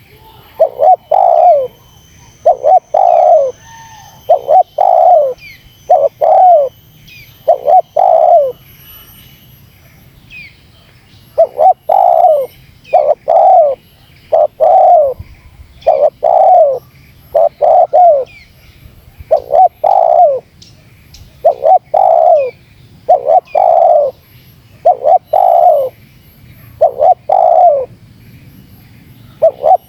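Spotted dove (terkukur) calling loudly in a rapid run of short coos, about one a second, each note dipping at its end, with a pause of a couple of seconds about nine seconds in. This is the fast, pressing challenge call used to lure and provoke wild rival doves.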